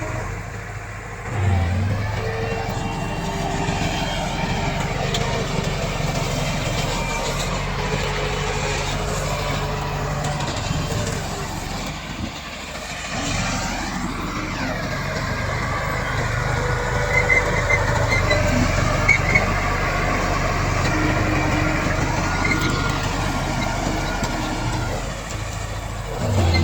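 Komatsu D68 bulldozer's diesel engine working under load while pushing soil, its pitch rising and falling a few times, with short high squeaks about two-thirds of the way through.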